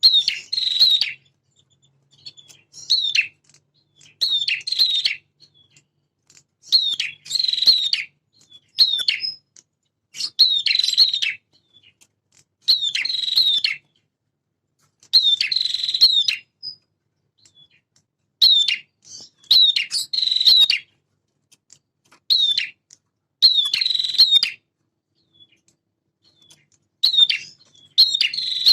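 Male prinia (prenjak) singing: loud phrases of sharp, high chirps, each about a second long, repeated every one to two seconds with short pauses between.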